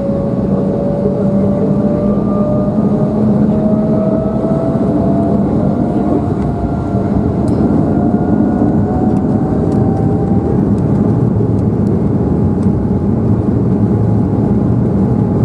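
Embraer 190's GE CF34 turbofan engines heard from inside the cabin, loud and steady, with a whine that climbs slowly in pitch throughout as the engines spool up on the takeoff run. A few light clicks and rattles come in the second half.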